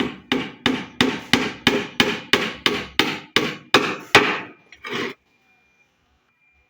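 Hammer driving nails into wooden formwork boards: a run of about thirteen sharp blows at about three a second, stopping after about four seconds, with one last duller knock about a second later.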